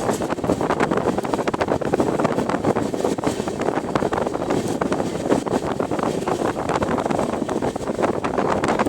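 Train running, a steady dense rattle and rush, with wind buffeting the microphone.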